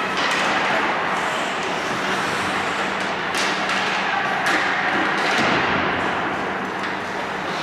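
Ice hockey play on a rink: a steady wash of skates scraping the ice, with several sharp clacks of sticks and puck.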